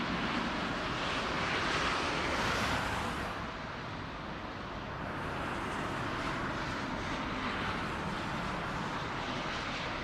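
Jet airliner engines running: a steady rush of noise that swells over the first few seconds, eases a little around four seconds in, then holds steady.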